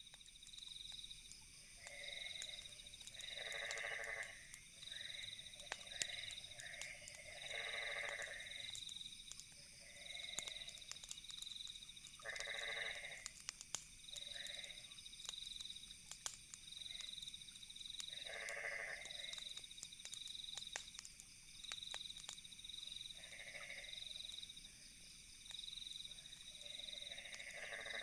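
Night ambience: frogs calling in repeated croaks every few seconds over a cricket chirping about once a second, with a campfire crackling in scattered sharp pops.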